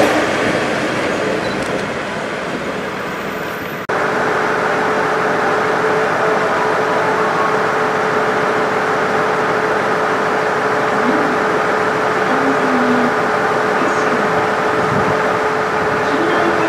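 Resort Shirakami train pulling out with a broad rumble that fades over the first few seconds. After a sudden cut, a steady hum with one level tone runs on while a JR East 701 series train approaches.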